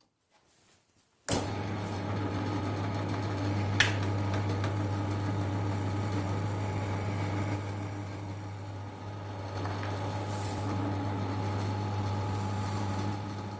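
An electric motor switches on about a second in and runs with a steady hum, with one sharp click a few seconds later.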